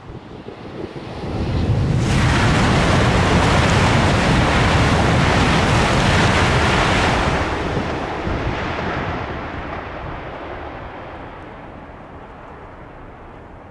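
Eurostar high-speed train passing at speed on the HS1 line: a loud rush of air and wheel noise builds quickly, holds for about six seconds as the train goes by, then fades away gradually as it recedes.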